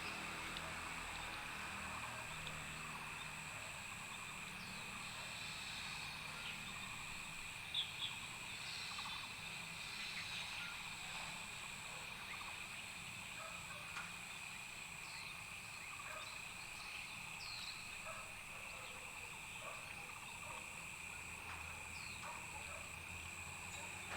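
Outdoor ambience: a steady high insect drone with short chirping calls scattered through it, over a low steady rumble. Two sharp clicks come close together about eight seconds in.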